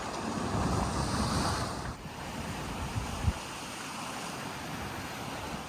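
Wind buffeting the microphone over a steady rush of wind and surf. The gusting is strongest for the first two seconds and then eases. There is one brief knock about three seconds in.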